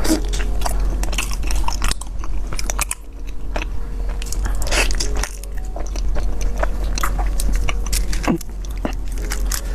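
Close-miked eating of crispy fried chicken: repeated crunching bites and chewing, with crackling clicks throughout and a brief lull about three seconds in.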